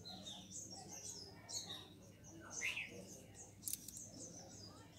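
Faint bird chirps: many short, high notes repeated throughout, with one clearer falling note a little past halfway.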